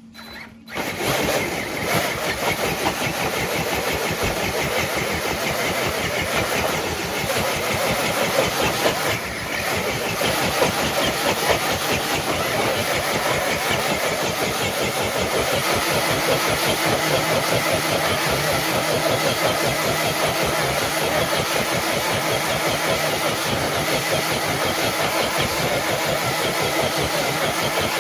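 Scale RC crawler truck's motor and geared drivetrain running hard under load as it drags a weighted pull sled. The steady mechanical drone starts suddenly about a second in.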